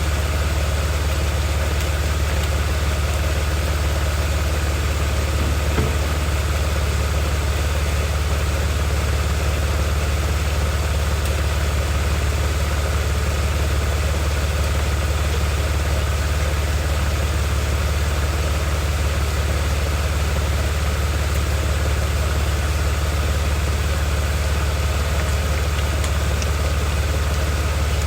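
BMW 330xi's inline-six engine idling steadily, with a constant low hum.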